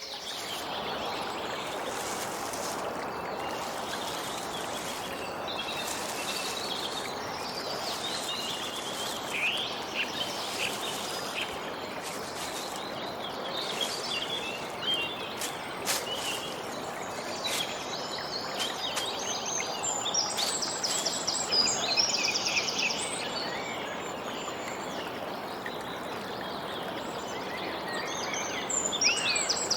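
Small birds chirping and trilling over a steady background rush, with a busier run of calls about two-thirds of the way through and again at the end.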